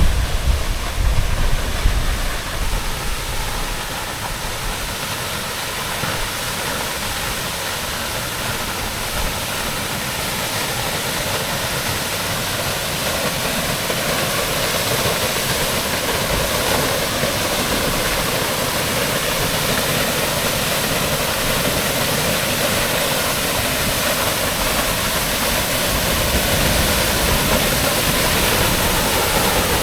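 Steady rush of a waterfall, growing slowly louder as it is approached. Wind buffets the microphone with a low rumble for the first couple of seconds.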